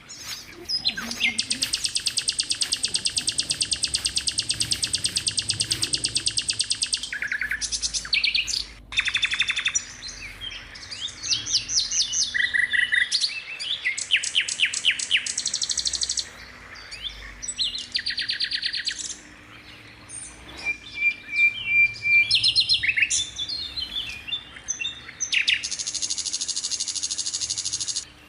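Oriental skylark singing a long, varied song: long, very rapid high trills near the start and near the end, with quick varied chirps and warbled phrases between them.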